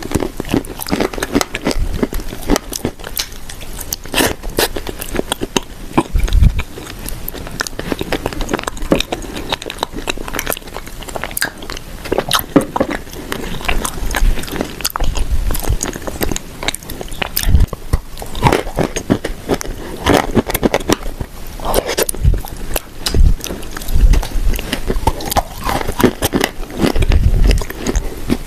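Close-miked biting and chewing of dry, crumbly food, a dense run of crisp crunches and cracks with heavier bites every few seconds.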